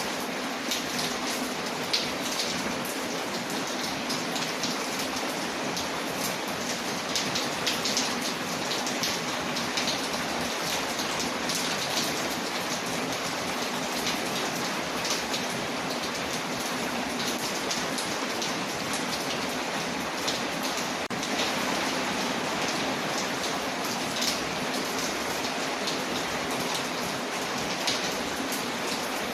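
Steady rain hissing on a window, mixed with a fireplace crackling: a continuous even rush with many small sharp pops and ticks scattered through it.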